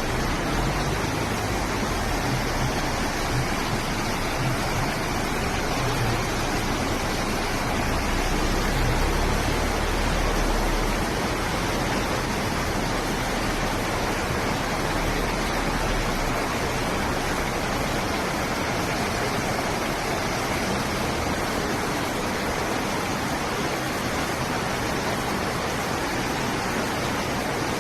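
Heavy rain pouring down in a steady, loud hiss. A low rumble runs underneath for several seconds in the middle.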